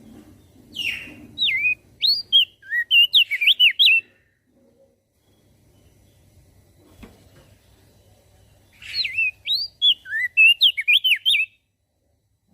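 Crested white-eye (opior jambul) singing two phrases of rapid, swooping whistled notes, the second coming about eight seconds after the first.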